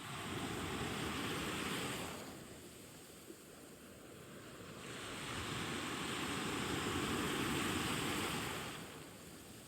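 Sea waves washing onto the shore, two swells of surf, the first over the opening two seconds and a longer one from about five to nine seconds in.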